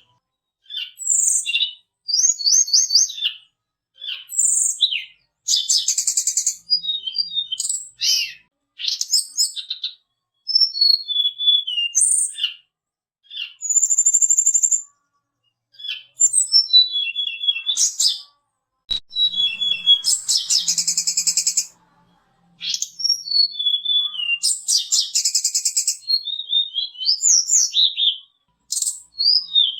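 Tledekan gunung (sulingan) singing in quick, high whistled phrases: sliding notes and rapid trills, broken by short pauses. A single sharp click comes a little past halfway.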